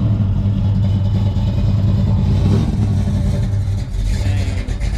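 A classic car's engine idling steadily with a deep, mean-sounding note, its pitch rising and dipping slightly.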